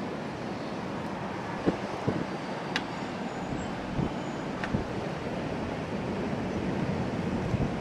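Thunderstorm wind blowing steadily across the microphone, with a few short sharp ticks scattered through the first half.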